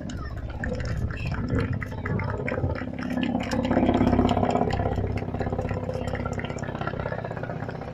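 Ka-52 attack helicopter flying past, its engine and rotor drone swelling about four seconds in and then slowly fading, with many short sharp cracks throughout.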